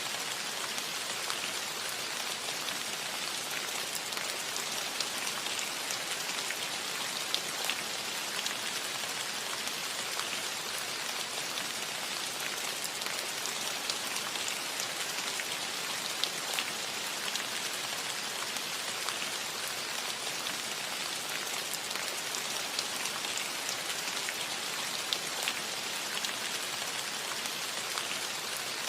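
Steady rain falling on a cottage roof: an even hiss dotted with sharper ticks of individual drops.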